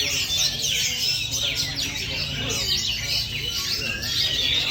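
Oriental magpie-robins (kacer) singing: a dense, unbroken run of quick whistles and chirps from several birds at once, over a low background rumble.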